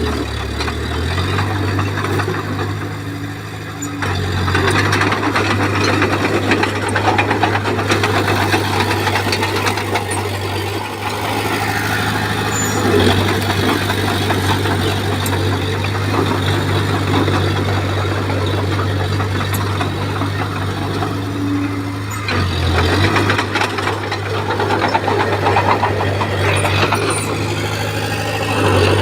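Komatsu bulldozer's diesel engine running with a steady low hum. Louder clattering and engine noise come in about four seconds in and swell again later as the machine works.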